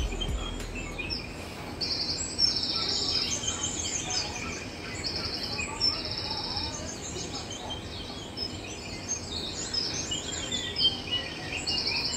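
Several small birds chirping and twittering, with short buzzy trills repeated every few seconds.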